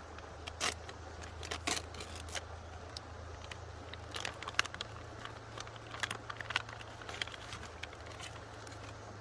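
Plastic packaging of an OMeals self-heating meal kit being torn open and handled, with irregular crinkles, crackles and small clicks throughout.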